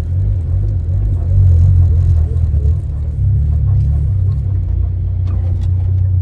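Honda Civic EG sedan's engine and drivetrain rumble heard from inside the cabin as the car rolls slowly, a deep uneven drone. The engine has been sputtering and trying to stall. A few light clicks come near the end.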